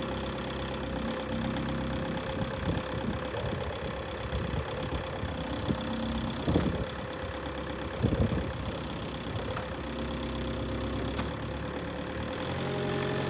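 Diesel engine of a Linde H35D forklift running at idle, with a few short knocks about halfway through.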